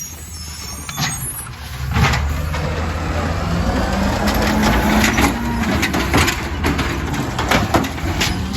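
Compost collection truck's engine running and rising in pitch about two seconds in, with repeated sharp clanks and knocks.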